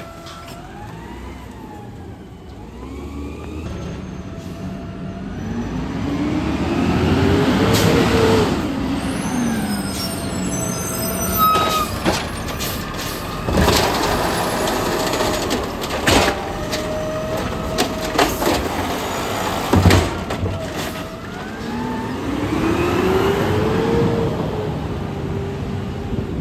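Garbage truck working a pickup. Its engine revs up with a rising whine and falls back twice, about sixteen seconds apart, with sharp clanks and knocks in between.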